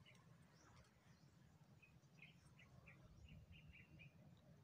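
Near silence: faint outdoor ambience with a low rumble and a run of short, faint high bird chirps about two to three and a half seconds in.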